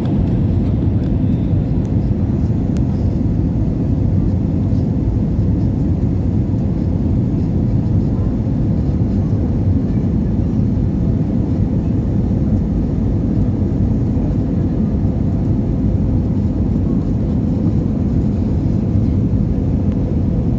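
Airliner in flight on approach to landing, a steady low roar of engines and airflow with a faint steady hum above it.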